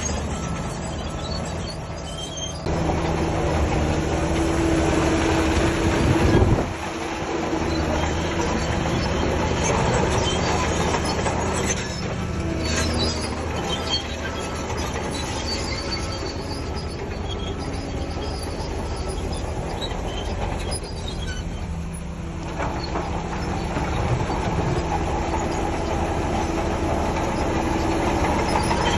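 Shantui DH17C3 crawler bulldozer working: its diesel engine running steadily under load, with the noise of its steel tracks. It grows louder a few seconds in, peaks around six seconds and drops back sharply, then swells again toward the end.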